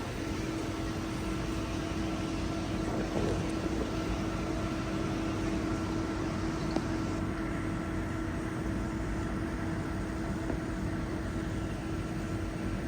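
Steady mechanical hum and air rush with a low steady tone underneath, holding level without change.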